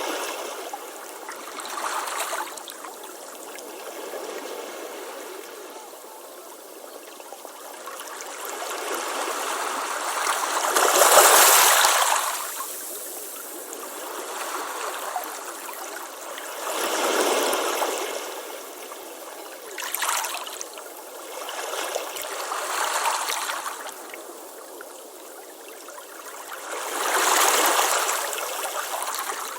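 Ocean waves washing onto a beach, one surge of hissing surf after another every few seconds, the largest about eleven seconds in, with no low rumble.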